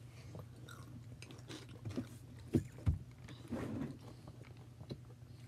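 Someone crunching and chewing a crunchy snack close to the microphone: scattered small crunches, with a few louder bites about two to three seconds in.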